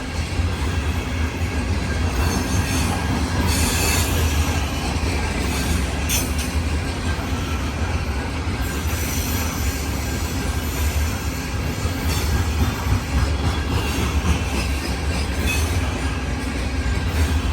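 Grain hopper cars of a long freight train rolling past: a steady low rumble of steel wheels on rail with a thin wheel squeal and a few sharp clanks.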